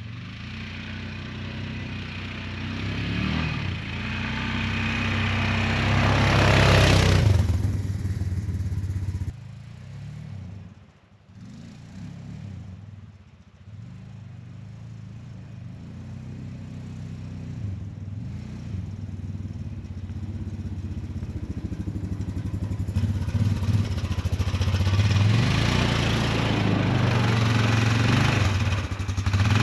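An engine running, rising to a loud peak about seven seconds in, falling away abruptly about two seconds later, then building steadily again toward the end.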